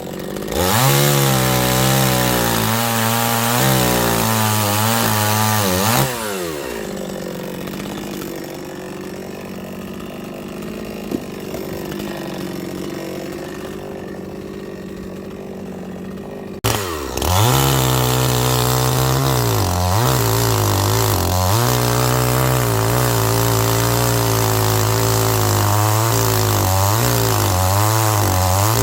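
Chainsaw running while cutting firewood, its engine speed rising and falling over and over. A quieter stretch runs through the middle, then the saw comes back loud about two-thirds of the way in.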